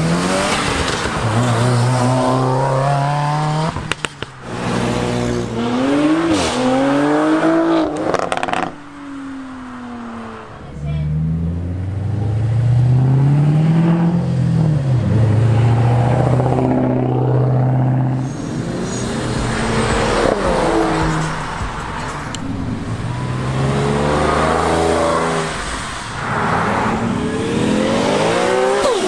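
Performance cars accelerating hard one after another, engines revving up through the gears so the pitch climbs and drops several times. There are a couple of sharp cracks in the first ten seconds.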